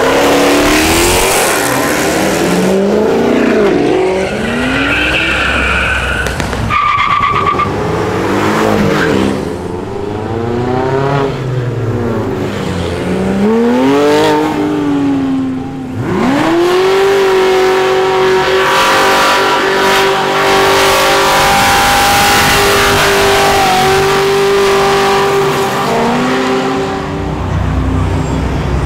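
Performance cars accelerating hard past one after another, their engine notes rising and falling as they rev and shift, with a brief tire squeal a few seconds in. From about halfway, one engine holds a long, steady high-revving note.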